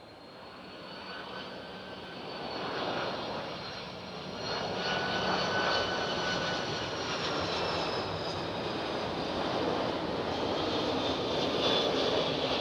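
Airplane engines on a landing approach: the noise grows louder over the first few seconds as the plane comes closer, then holds steady, with a high whine that slowly rises and falls in pitch.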